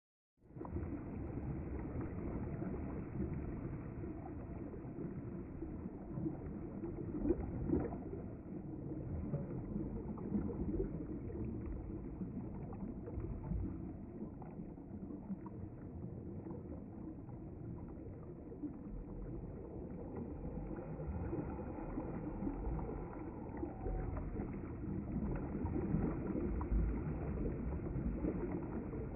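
River water flowing: a steady, deep rushing noise.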